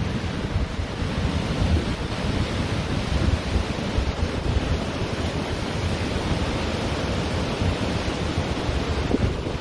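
Ocean surf washing steadily onto a beach, with wind buffeting the microphone in a low rumble.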